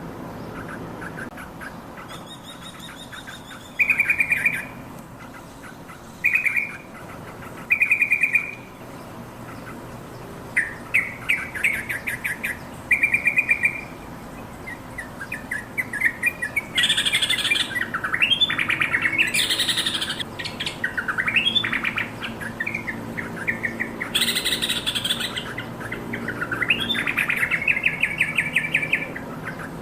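Yellow-vented bulbul calling: short separate bursts of quick chattering notes, then from about halfway a busier run of louder, harsher phrases.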